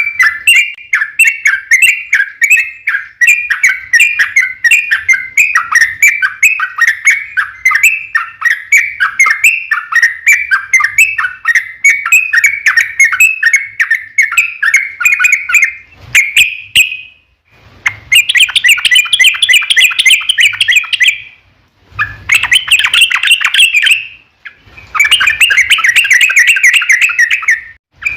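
Yellow-vented bulbul (trucukan) singing loud, rapid chattering song. An unbroken run of quick notes for about the first sixteen seconds breaks into several long, dense phrases with short pauses between them.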